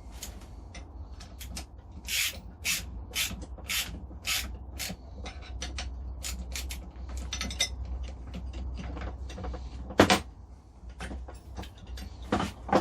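Hand tools working on the steel and aluminium parts of a belt grinder being assembled: a run of short rasping clicks, about two a second, then a single sharp knock about ten seconds in, over a steady low hum.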